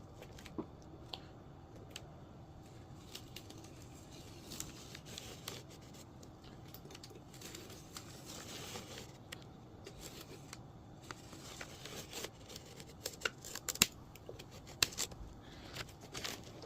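Light hand-work sounds of tape and wood veneer being handled: scattered small clicks and snips, with a short stretch of rustling about eight seconds in.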